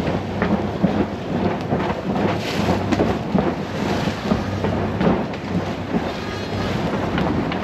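Wind buffeting the microphone with a heavy rumble and crackle, over the steady hum of a sailboat's inboard diesel engine motoring.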